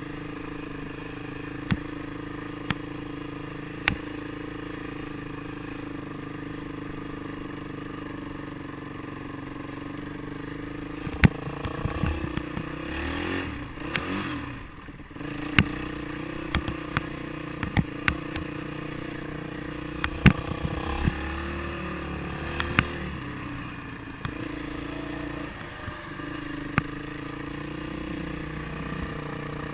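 Motorcycle engine running steadily under way, with scattered sharp knocks and rattles. About halfway through the engine pitch shifts and briefly drops, then steadies again.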